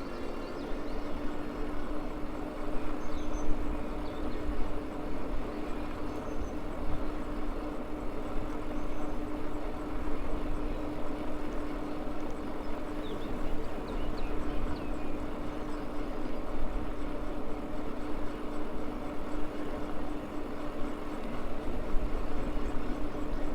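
Electric motor of a Maxtron Mule folding e-bike whining at one steady pitch under way, over road and wind rumble.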